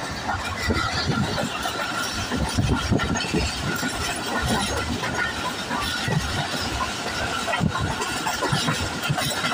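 Passenger train running along the track, heard from an open coach doorway: wheels rumbling and rattling over the rails without a break, with a faint steady high whine throughout.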